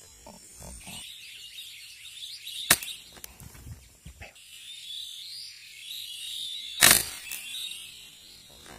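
Two sharp shots from an air rifle, about four seconds apart, the second one louder, over steady chatter from a large flock of birds.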